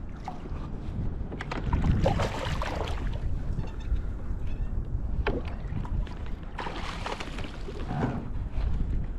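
Water splashing and sloshing around a kayak, with a few sharp knocks on the hull and a low wind rumble on the microphone. The two longest splashes come about two seconds in and again after six seconds.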